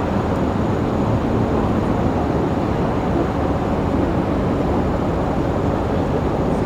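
Steady low rumble of vehicles, even and unbroken, with no distinct engine notes or events standing out.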